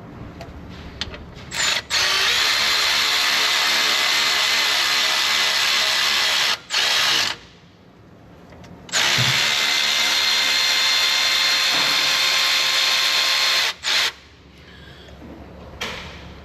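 A hand-held power tool whirring steadily in two long runs of about five seconds each, with a short break between them, while the threads of a bolt hole in the engine are cleaned out.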